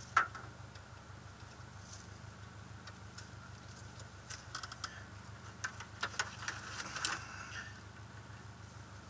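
Rally car's engine idling low and steady, heard from inside the cabin, with a sharp click about a quarter second in and a scatter of light clicks and taps between about four and seven and a half seconds in.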